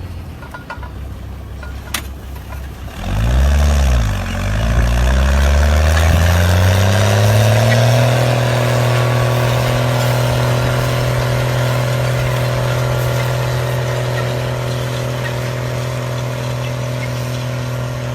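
A heavy diesel engine running low, then blipped hard about three seconds in, then revved steadily up to high revs by about eight seconds in and held there.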